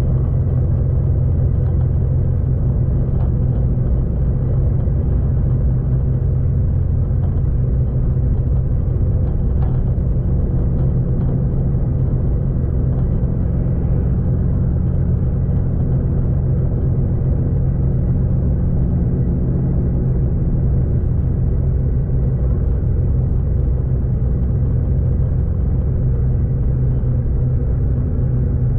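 Steady low rumble of a V/Line passenger train running along the line, with a few faint ticks.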